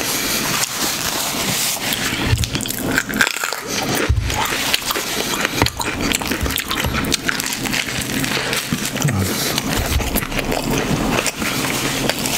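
Close-miked chewing of a mouthful of food, with wet mouth and lip-smacking sounds and many small clicks running on without a break.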